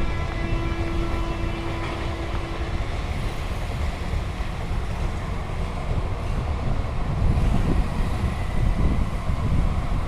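Train running over a railway bridge: a steady low rumble with wind on the microphone, and a faint steady tone for the first few seconds.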